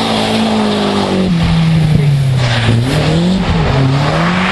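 Competition car's engine being driven hard through a tight course. The revs drop away twice as the driver lifts off, and climb again each time the car accelerates.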